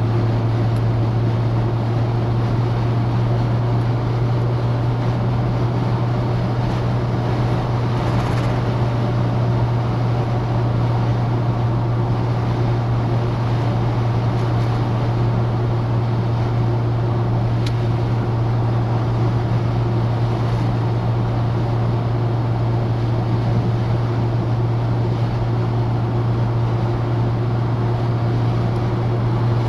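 Citroën DS being driven at a steady pace: an even, low engine drone over constant road and wind noise.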